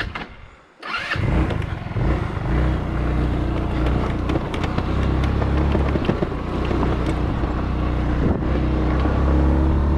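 150cc GY6 scooter engine, its top end freshly rebuilt and still breaking in, coming in suddenly about a second in and then running steadily.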